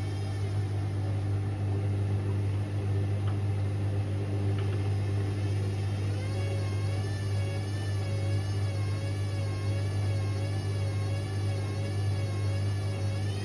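Indesit IWC6165 washing machine's motor running at a steady speed, driving the drum: a constant low hum with a faint whine that wavers slightly up and down, and a couple of faint ticks.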